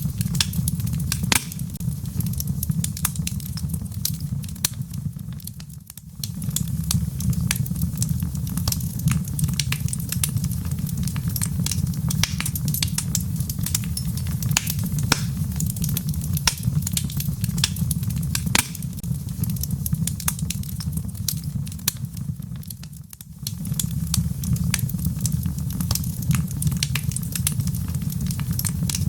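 Wood fire crackling, with frequent sharp pops and snaps over a steady low rumble. The whole sound briefly fades down and back up twice.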